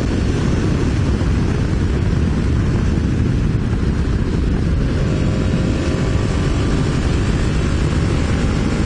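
Steady wind rush on a helmet-mounted camera microphone while riding a Honda VFR750 at speed, with the motorcycle's V4 engine droning underneath. A faint steady tone comes in about halfway through.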